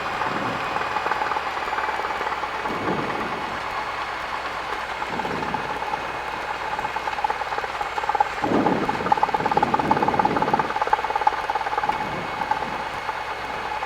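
Cessna 172 cabin noise: the engine running steadily under a hiss, heard through the cockpit intercom, rising in level for a couple of seconds past the middle.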